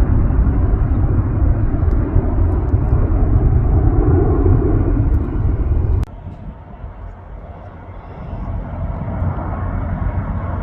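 Jet airliner engine noise: a loud, steady rumble that cuts off abruptly about six seconds in, followed by a quieter rumble that builds again.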